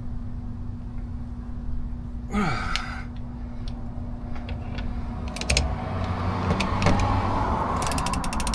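Ratchet wrench with a 36 mm socket straining against a very tight fuel filter cap. There is a short effortful exhale about two and a half seconds in, then scraping and a run of rapid ratchet clicks near the end. A steady low hum runs underneath.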